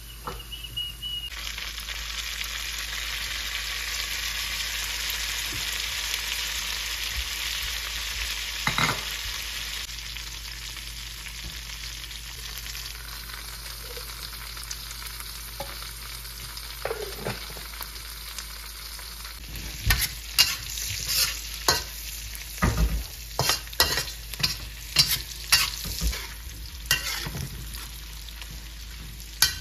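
Diced Chinese sausage and cured pork sizzling in hot oil in a wok, with a steady hiss that is strongest in the first half. From about twenty seconds in, a metal spatula stirs the mixture and clicks and scrapes against the wok about once or twice a second.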